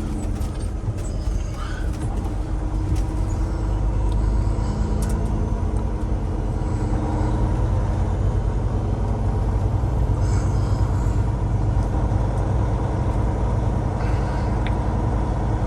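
Peterbilt 389 heavy-haul truck's Cummins X15 diesel engine running steadily while driving, heard from inside the cab as a continuous low hum with road noise.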